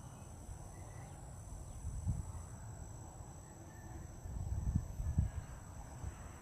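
Steady high-pitched insect chorus, with low rumbles rising briefly about two seconds in and again around five seconds in.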